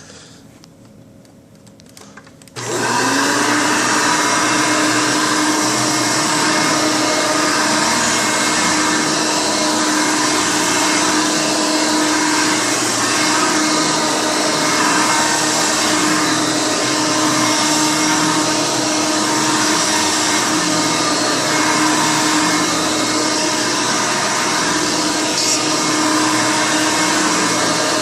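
Hoover Elite U4485 upright vacuum cleaner switched on about two and a half seconds in, its motor quickly rising to speed and then running steadily.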